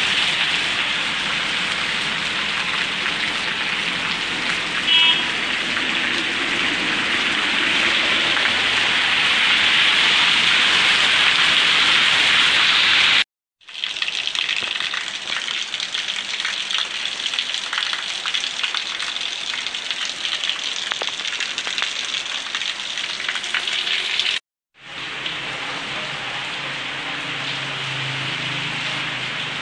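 Heavy rain pouring steadily, hissing on wet pavement and a flat concrete roof. The sound cuts out briefly twice, and is a little softer after the second break.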